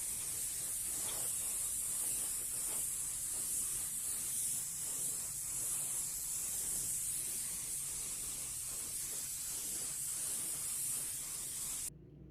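Steady spraying hiss that cuts off suddenly near the end.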